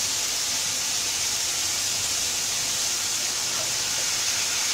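Vegetables sizzling in pans on a gas stove: a steady, even hiss.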